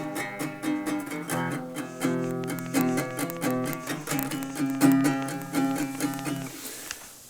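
Guitar played live: a quick rhythmic riff of struck chords and notes that stops about six and a half seconds in, the last notes fading out.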